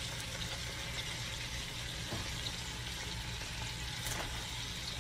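Shredded cabbage frying in hot bacon grease in a pot: a steady sizzle.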